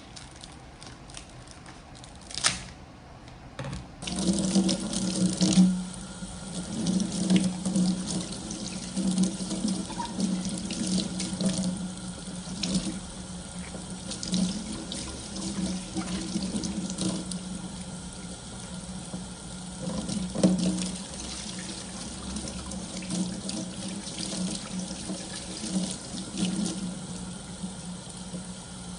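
Kitchen tap turned on about four seconds in, water running and splashing steadily into a sink. A single sharp click comes just before it.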